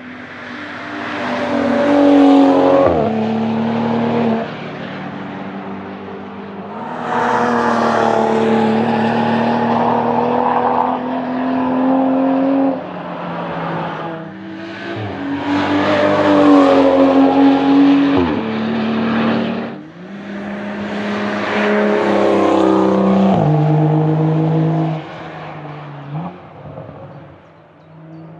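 BMW M235i Racing cars with racing exhausts driving past at speed in a series of about four passes. The turbocharged straight-six note swells as each car approaches, and its pitch drops sharply as it goes by.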